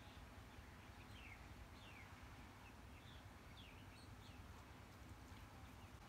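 Faint bird chirps: several short high notes, each sliding downward, over a near-silent background.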